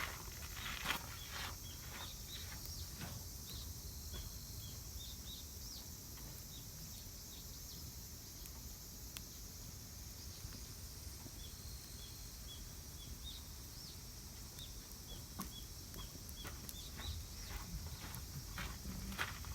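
A bird calling with short, repeated high chirps, roughly two a second, over a steady high hiss of outdoor ambience. A few sharp knocks sound near the start and again near the end.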